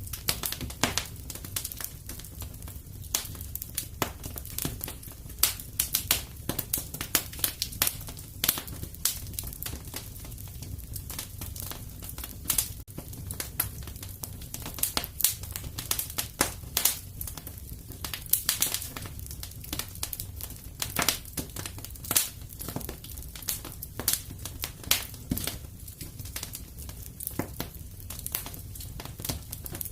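Wood fire crackling in a fireplace: a steady low rumble of flames under irregular sharp pops and snaps, several a second, with a few louder cracks.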